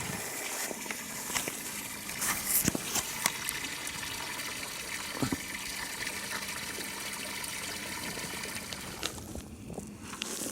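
Water from a garden hose pouring into a livestock water trough: a steady splashing rush with a few light clicks.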